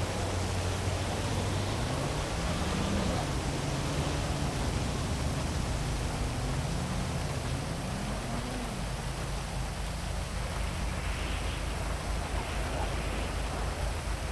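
Heavy rain falling steadily over a city, an even hiss, with road traffic underneath: vehicle engines rising and falling in pitch as they pass during the first two-thirds, then fading.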